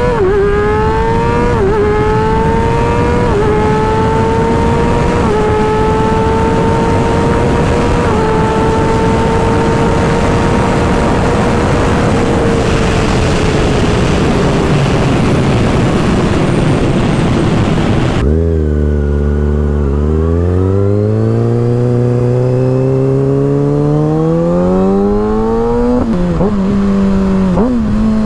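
Sport-bike engine and exhaust accelerating hard, the engine note climbing in steps with a short dip at each of several quick upshifts and then holding high. About 18 s in it cuts abruptly to a lower, deeper note that climbs steadily again, with two short rev blips near the end.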